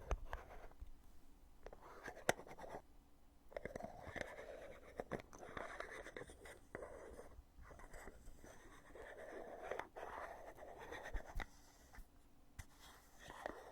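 Heavy lid of a foundation cosmetic container being opened and closed over and over: sharp clicks every few seconds, with soft rubbing and scraping as the lid is handled between them.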